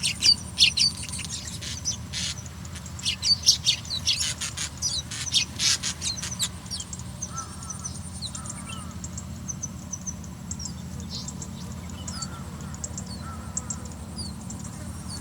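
Baby birds begging with hungry high-pitched cheeps. Dense, loud chirping for the first half, thinning to scattered calls after about seven seconds.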